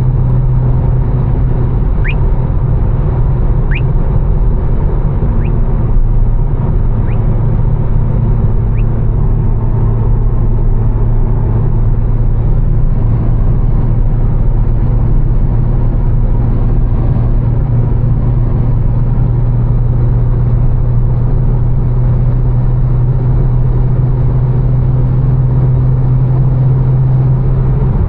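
Tuned BMW M4's twin-turbo straight-six, with catless downpipes and a Fi exhaust, droning steadily at cruise over the hiss of tyres on a wet road. A few faint short rising chirps come about every second and a half during the first nine seconds.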